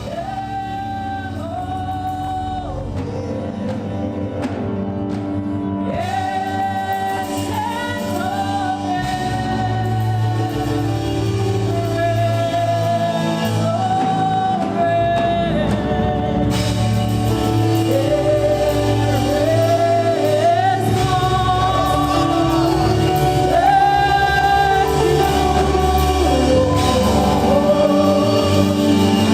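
Gospel song with singing over instrumental accompaniment, growing steadily louder.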